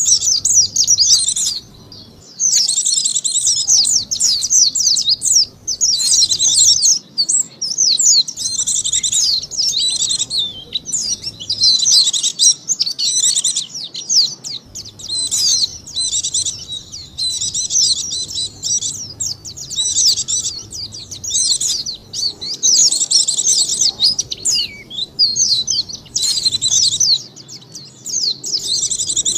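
Pleci (white-eye) song: rapid, high twittering in runs of a second or two separated by short breaks, a lure call for attracting white-eyes.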